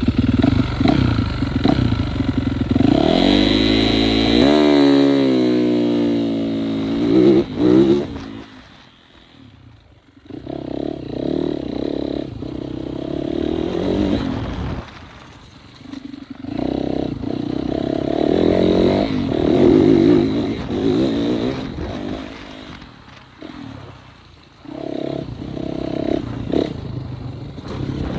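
Motocross bike engines revving hard and passing close, the pitch rising and then falling away about eight seconds in. The bikes then come past again several times, each swelling up and fading.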